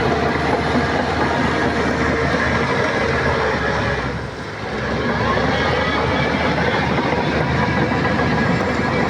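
Shantui crawler bulldozer working, its diesel engine running steadily under the clatter of its steel tracks. The noise eases briefly about halfway through, then comes back up.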